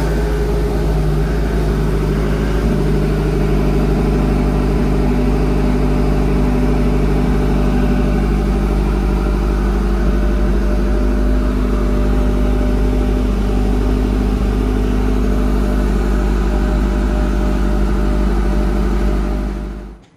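A hypercar's engine just after a cold start, idling fast and steady. It starts abruptly and cuts off abruptly near the end.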